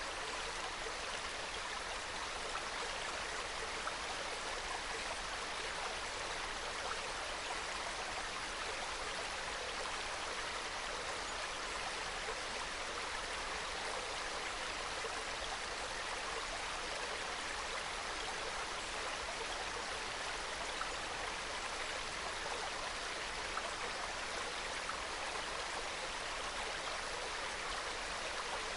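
Small mountain stream trickling and burbling over rocks, a steady even flow of water.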